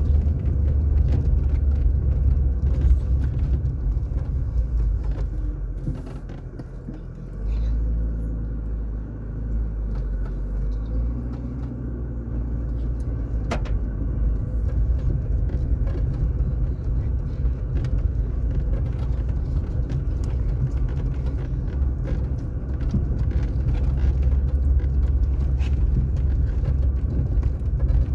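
Car driving on a paved road: a steady low rumble of engine and tyres. It eases off briefly about six seconds in, then picks up again, with a single click about halfway through.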